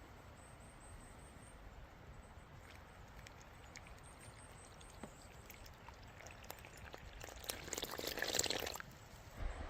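Liquid being poured for about a second, late on, over a faint background with scattered small clicks.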